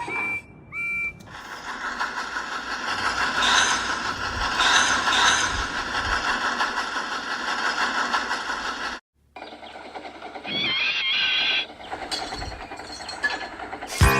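Model train running on track, a dense mechanical clatter that builds for about eight seconds and cuts off abruptly. It follows two short high whistle-like tones at the start, and continues more quietly afterwards with a few brief high tones.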